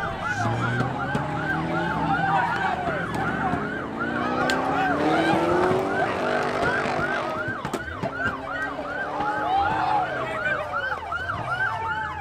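Police car siren in its fast yelp mode: rapid rising-and-falling sweeps repeating about three times a second, with a lower, slowly rising tone underneath around the middle.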